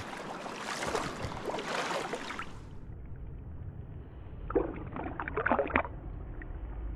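Creek water splashing and sloshing around rubber boots wading through a stream, with a burst of sharper splashes in the second half.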